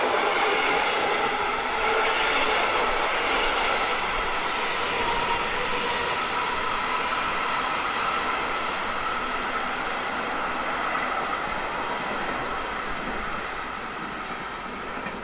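Locomotive-hauled passenger train of coaches rolling past and away on the rails, its wheel and rail noise fading gradually as it leaves.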